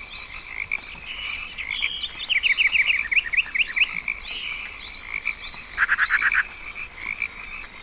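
Rainforest frog chorus over a steady high-pitched background drone, with scattered short chirps. About two seconds in comes a run of eight or so quick rising calls, and near six seconds a short fast trill.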